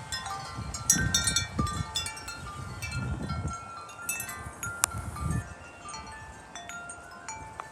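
Wind chimes ringing hard in gusty wind, many tubes struck in quick succession with long ringing tones, over the low rumble of gusts on the microphone. The chiming thins out and quietens about halfway through as the gust dies down.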